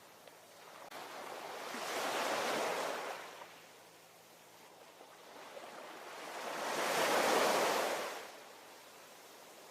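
Ocean waves washing ashore: two swells of surf, one peaking about two and a half seconds in and a louder one about seven seconds in, each fading back to a soft hiss.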